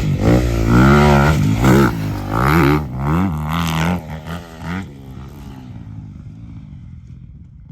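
Dirt bike engine revving in quick blips up and down, then dropping to a quieter, fading sound over the last few seconds.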